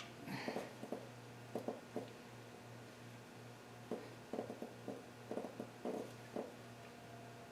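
Hand tools clicking and clinking on metal in short irregular clusters, over a steady low hum.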